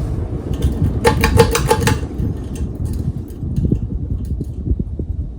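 52-inch Kichler Canfield ceiling fan just switched off from high speed: a short run of sharp clicks about a second in, then the low rush of its airflow buffeting the microphone, slowly fading as the blades coast down.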